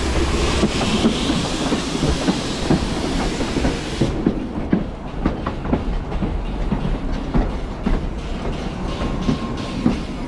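Narrow-gauge railway carriage rolling along, its wheels clicking and clattering over the rail joints above a steady low rumble. A high hiss runs over it for the first four seconds and cuts off suddenly.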